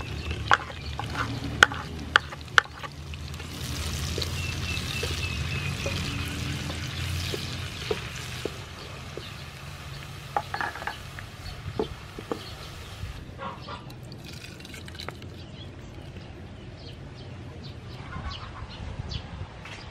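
Chopped green onion knocked off a wooden board into hot oil in a frying pan, with a few sharp knocks at first. The onion then fries in the oil, with a sizzle that is loudest for several seconds and then settles into a softer crackle.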